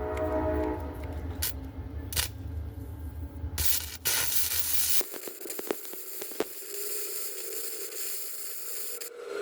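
Mastercraft flux-core wire welder arc crackling and sizzling: a few short bursts, then a steady sizzle lasting about four seconds from the middle on. The welder is fighting a poor ground connection on the frame.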